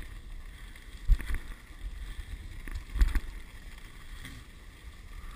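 Dog sled running along a snow trail: a steady rumble and hiss of the runners, with wind on the microphone and two sharp knocks as the sled jolts, about a second in and again about three seconds in.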